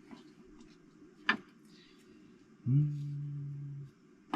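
A single light metal clink as the oil pump housing is positioned against the engine block, then, near the end, a steady low hum lasting about a second.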